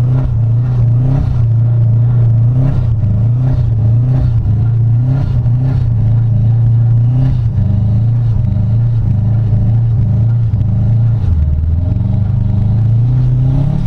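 A 2005 Subaru WRX's turbocharged flat-four engine held at high revs as the all-wheel drive spins the bald summer tires on snow, the car barely moving. The revs hold steady, dip briefly about eleven seconds in, then climb again.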